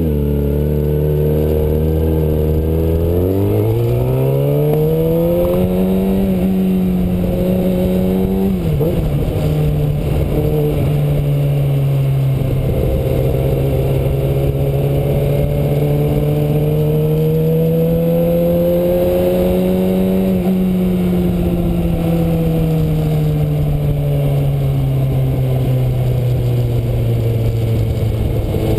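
Kawasaki Ninja ZX-6R inline-four engine running under way. Its pitch climbs about three seconds in, drops suddenly near nine seconds, then rises slowly and falls away again toward the end.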